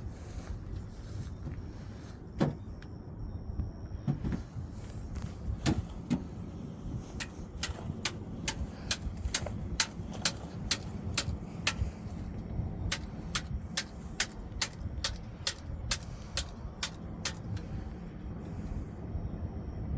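Two runs of sharp, evenly spaced clicks, about three a second, after a few louder knocks, over a steady low rumble.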